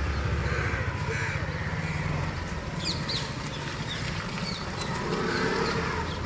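Hero Maestro Edge scooter's single-cylinder engine idling steadily, with a few short bird chirps about three and four seconds in.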